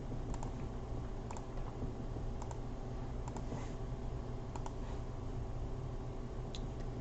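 A handful of scattered clicks from computer keys or buttons being pressed, several in quick pairs, over a steady low electrical hum.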